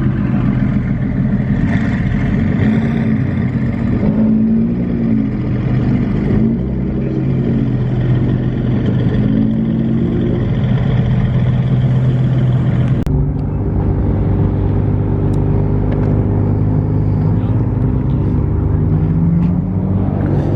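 Car engines running, a steady low hum with wavering tones above it, changing abruptly about two-thirds of the way through.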